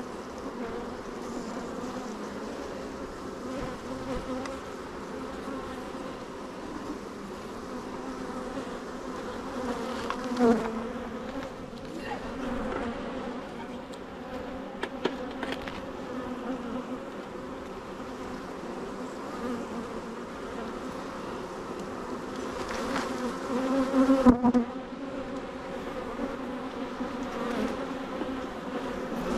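Swarm of honeybees buzzing around an open hive, a steady droning hum that swells louder twice as bees fly close to the microphone, with a few brief clicks of frames and hive tools.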